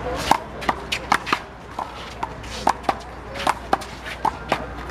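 A rubber handball rally in one-wall handball: the ball smacked by bare hands and hitting the wall and court, about a dozen sharp smacks in quick, uneven succession, some in close pairs.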